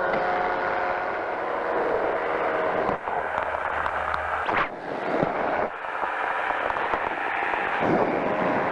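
A powered parachute's engine and propeller drone steadily in flight, with a noisy crackle and brief dropouts of sound about three to six seconds in.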